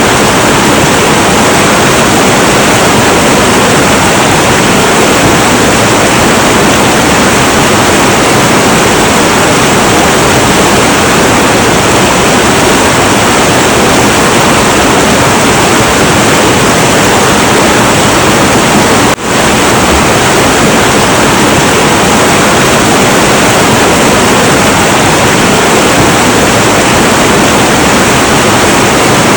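Heavy, turbulent river water rushing in a steady, loud roar, with one momentary dip in level about two-thirds of the way through.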